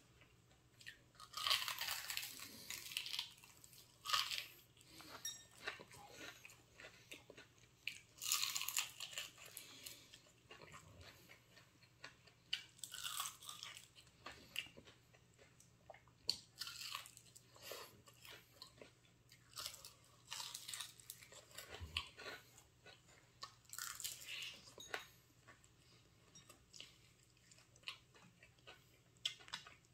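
Crispy fried chicken being bitten and chewed close to the microphone: irregular crunches of the batter, loud bursts a second or two apart with softer chewing between.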